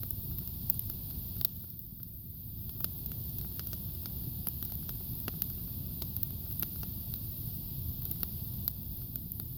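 Campfire burning: a steady low rumble of the flames with frequent sharp crackles and pops from the wood, scattered irregularly.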